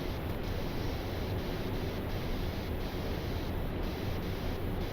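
Steady rushing noise of airflow and air systems in the flight deck of a Boeing 777-300ER descending on approach.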